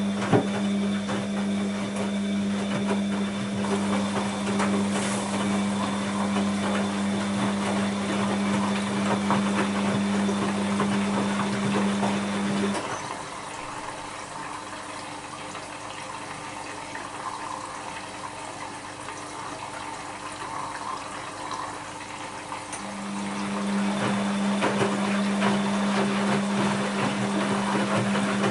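Bosch WAB28220 washing machine's drain pump humming steadily as it pumps out water. It cuts out about 13 seconds in, leaving quieter water sloshing in the drum, and starts humming again about 23 seconds in.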